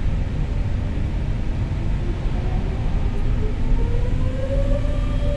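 Airbus A320neo engines spooling up to takeoff thrust, heard from the cockpit: a heavy steady rumble with a whine that rises steadily in pitch from about halfway in.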